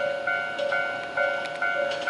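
Japanese railway level-crossing warning bell ringing in a steady, even rhythm, just under two strikes a second, each strike fading before the next and alternating between a lower and a higher tone.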